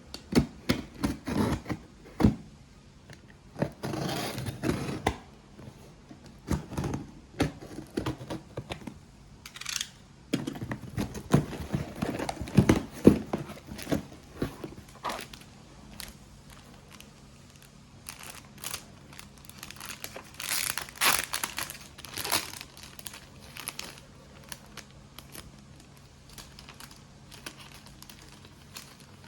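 Paper or plastic packaging being handled and crinkled in irregular bouts, with a few sharper crackles and knocks, busiest in the first half and thinning out near the end.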